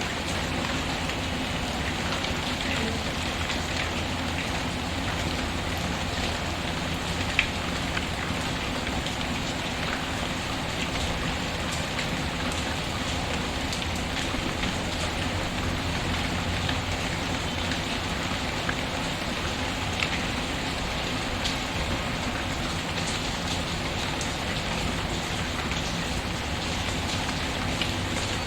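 Steady patter of rain mixed with a crackling wood fire in a fireplace, with a few sharp pops standing out; the loudest comes about seven seconds in.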